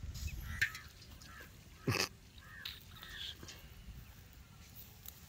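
Birds calling in the open: a handful of short, separate calls scattered through the first few seconds, with one louder call about two seconds in.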